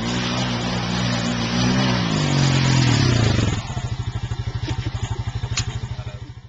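Four-wheeler (ATV) engine running hard under load, its pitch rising a little and then falling, before it drops to a low, even putter about three and a half seconds in.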